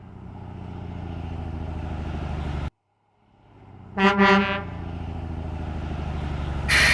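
Garbage truck sound effects: the engine runs with a low, steady rumble that cuts off suddenly, then a horn toots twice about four seconds in and the engine rumbles again. A loud burst of hiss comes in near the end.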